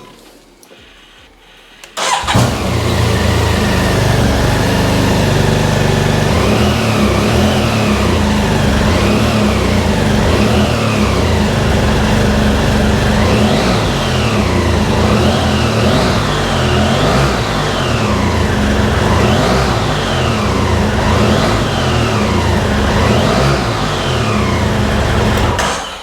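2018 BMW F800GT's parallel-twin engine starting about two seconds in, then running and being revved again and again, each rev rising and falling back to idle. It cuts off at the end.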